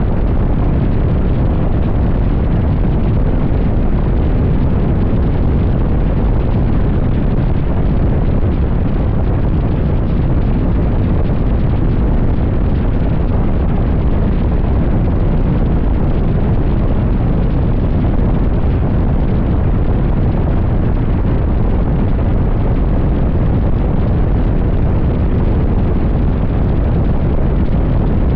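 Wind rushing over the microphone of a motorcycle riding at highway speed: loud, steady wind noise, heaviest in the low end, with no break.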